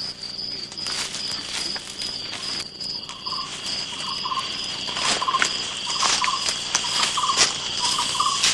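Rainforest insect chorus: crickets or cicadas keep up a steady, rapidly pulsing high chirp. From about three seconds in, a lower short trilling call repeats about twice a second. Scattered sharp clicks and crackles sound over it.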